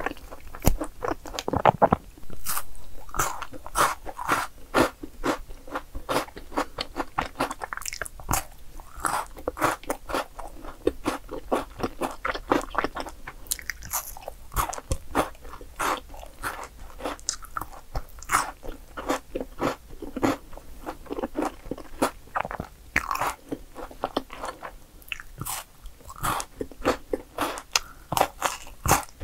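Close-miked biting and crunchy chewing of a Milka chocolate bar with a crisp biscuit layer: a continuous run of sharp crunches.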